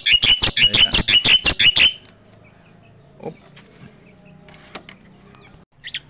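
A caged bird giving a fast run of sharp, chattering calls, about five a second, which stop about two seconds in; after that only faint small sounds.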